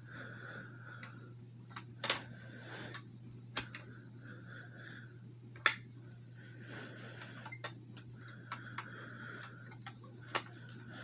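A few scattered sharp clicks and taps at irregular intervals, the loudest about two and five and a half seconds in, from a diecast model truck being handled. A steady low hum runs beneath.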